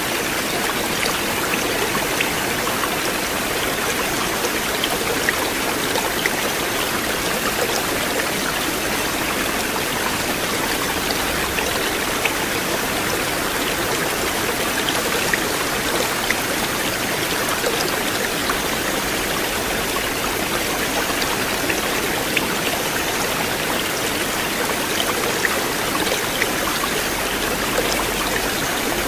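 River water flowing in a steady rush, with small splashing ticks scattered through it.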